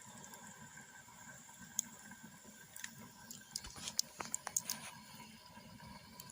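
Faint, irregular clicks and taps, most of them bunched together in the middle, over a low steady background hum.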